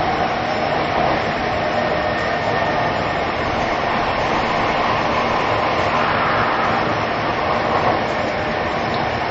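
Inside an E233 series 2000 electric commuter train running between stations: the steady running noise of the car at speed, with a few faint steady tones above the rumble.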